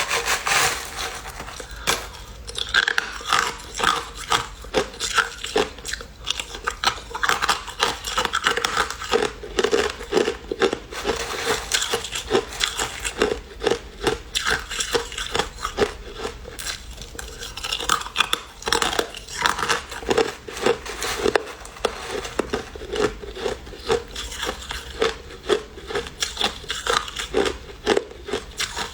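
Crushed ice being bitten and chewed close up: a fast, uneven run of loud crunches, several a second, throughout.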